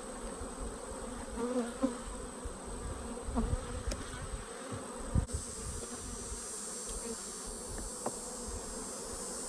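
Honey bees buzzing in a steady hum around an opened hive, with a few short knocks, the loudest about five seconds in.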